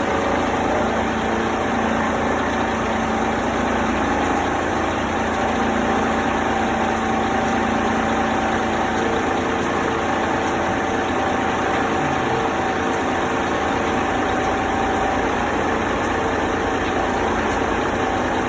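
An engine idling steadily, with a constant whine over the engine noise.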